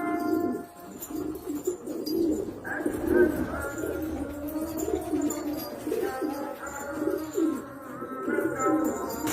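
Domestic pigeons cooing over and over, several low wavering coos overlapping.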